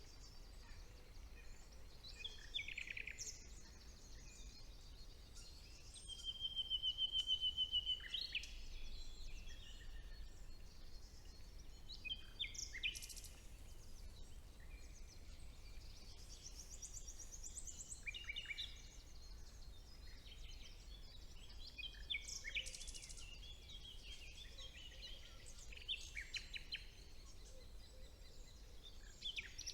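Songbirds singing in a spring woodland, among them a common nightingale: a run of short, varied phrases of whistles, chirps and trills with gaps between them. About six seconds in, one rapid note repeated for about two seconds is the loudest phrase. A faint steady low hum lies underneath.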